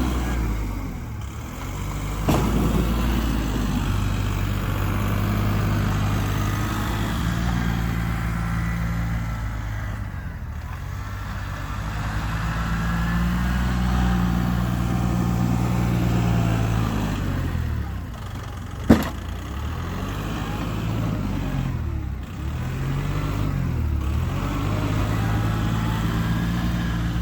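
A snowplowing vehicle's engine running and repeatedly revving up and easing off as it works, with a single sharp clank about nineteen seconds in.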